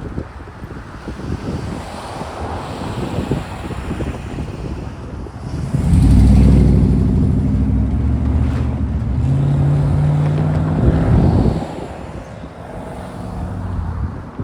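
Military freight train rolling through a grade crossing, a steady rumble with wind on the microphone. About six seconds in, a loud diesel engine drone with a steady pitch comes in. It shifts pitch partway through and fades out about three seconds before the end.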